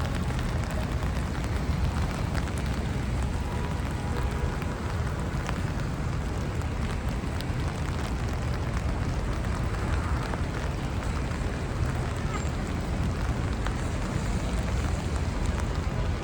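Rain falling on a city street, a steady hiss with faint ticks and pattering, over a constant low rumble of traffic.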